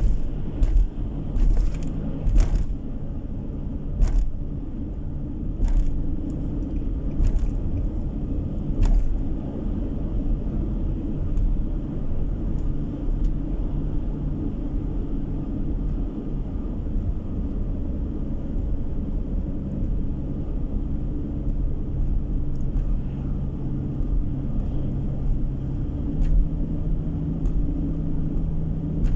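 Car driving along a road: steady engine hum and road rumble. Sharp clicks or knocks come every second or two for the first nine seconds or so.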